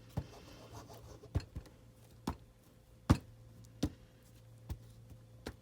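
Rubber stamp tapped down onto paper on a tabletop: about seven sharp taps at uneven intervals, the loudest about three seconds in, over a faint steady hum.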